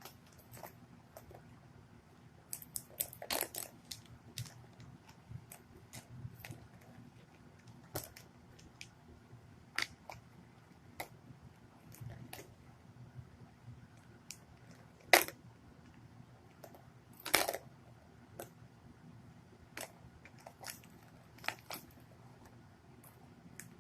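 A cat playing with a catnip toy: irregular taps, knocks and rustles, with a cluster of quick clicks early on and two louder knocks in the second half.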